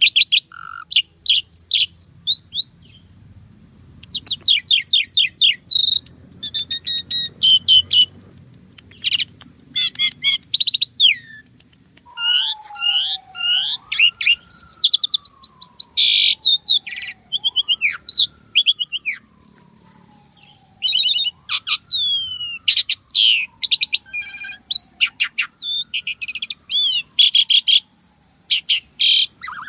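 Asian pied starling singing a fast, varied chattering song of chirps, trills and whistles, with a short pause a second or so in. In the second half a slow falling whistle repeats about four times beneath the chatter.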